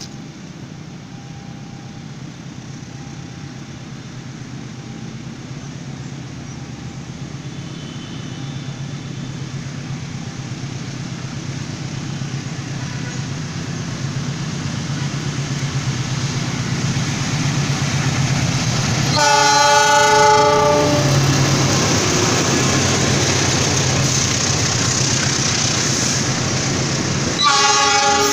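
A diesel-electric locomotive hauling a long-distance passenger train approaches and passes, its engine and wheels growing steadily louder. It sounds its horn, several tones at once, for about two seconds about two-thirds of the way through, and again near the end as the coaches go by.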